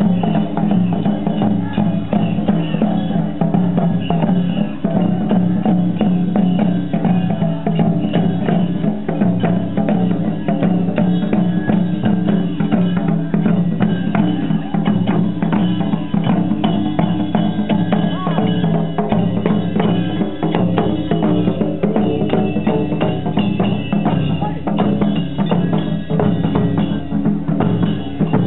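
Japanese festival drumming and percussion, continuous and loud, with many sharp knocks.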